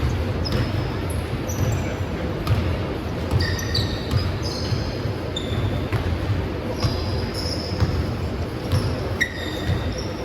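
Rubber game balls bouncing and smacking on a gym floor during an adball game, with short high squeaks scattered through, over a steady low rumble of the hall.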